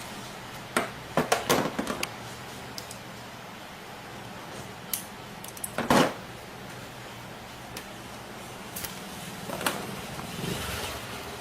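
Scattered clicks and knocks of wires and a plastic wall socket being handled while the wire ends are fitted into its terminals, with a stronger knock about halfway through, over a steady low hum.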